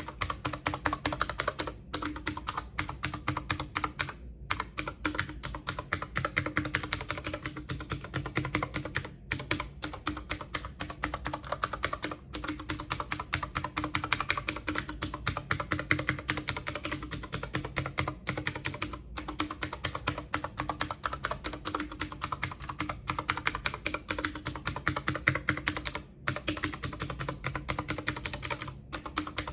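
Fast, continuous typing on a computer keyboard: a dense run of key clicks, broken by a few short pauses.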